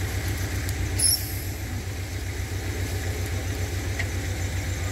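Off-road 4x4's engine idling, a steady low throb, with a short high-pitched chirp about a second in.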